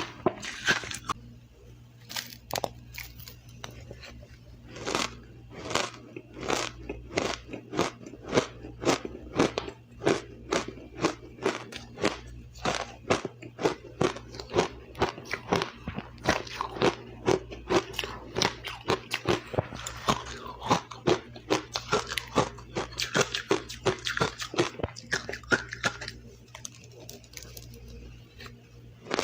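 A person biting and chewing ice close to the microphone: crisp crunches about two a second, with a short quieter pause a couple of seconds in.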